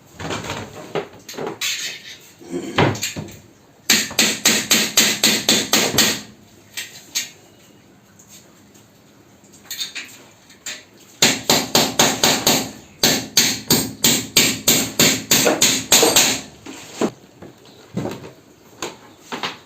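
Hammer striking hard and fast, about five blows a second, in runs of several seconds with short pauses between. These are typical of breaking through a house wall to fit an air conditioner.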